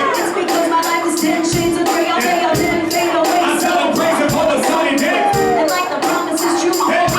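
Live band playing a mid-tempo groove: drums with a steady run of cymbal strokes over bass, keys, guitar and trombone, with a melody line bending in pitch above.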